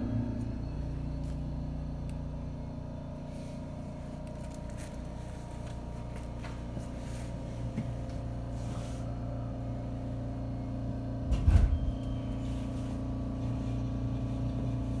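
JR 313-series electric train running, heard from inside the car: a steady low rumble with a constant electric hum, and a brief loud low thump about eleven and a half seconds in.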